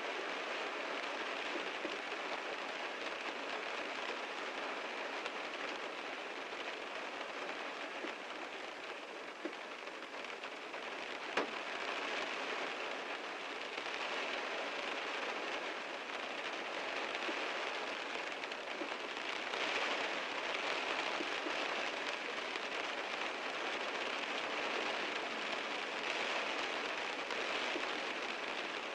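Heavy rain falling on a car: a steady hiss of many raindrops, with one sharper tap about eleven seconds in.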